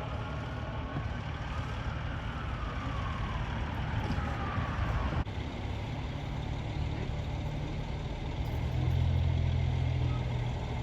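Emergency vehicle siren with a falling pitch that cuts off suddenly about five seconds in, over the steady low hum of a large vehicle's engine running, which gets louder about eight seconds in.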